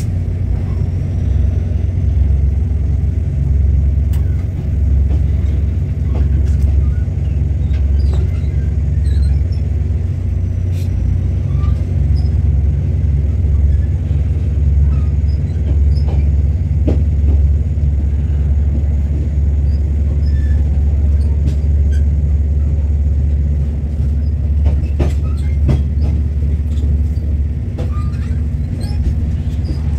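Train at the station running steadily, a loud low hum that does not change.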